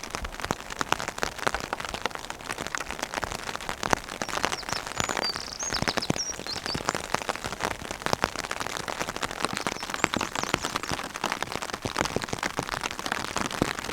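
Heavy rain falling on a tarp shelter overhead: a dense, steady spread of drop impacts.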